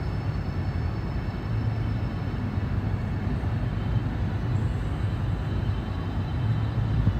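Steady low rumble of a vehicle in motion, an even noise with no breaks or changes.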